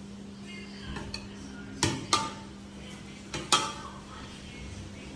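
Sharp clinks of hard objects knocking together, with a short ringing after each: two light ones about a second in, then two close pairs a second and a half apart. A steady low hum lies underneath.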